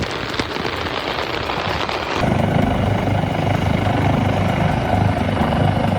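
Loud, steady rain hiss for about two seconds, then an abrupt cut to the low, pulsing rumble of a running motor vehicle.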